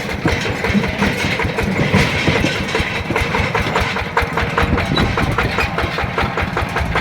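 Yanmar TF120 single-cylinder diesel engine of a mini tractor running steadily while driving, with a rapid, even beat.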